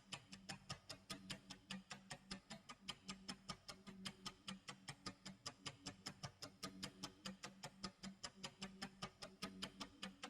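Clock tick-tock sound effect from a countdown timer: rapid, even ticks, about six a second. A low steady tone sits underneath in stretches.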